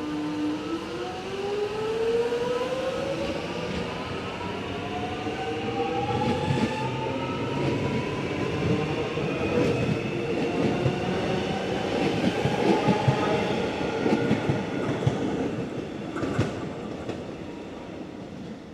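Electric suburban train pulling away from the platform: its motor whine rises steadily in pitch as it accelerates, with wheels clacking over rail joints through the middle, then it fades as it leaves.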